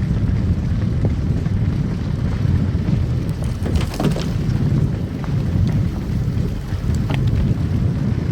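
Car driving on a snow-covered road: a steady low rumble of tyres and engine, with a few brief crackles partway through.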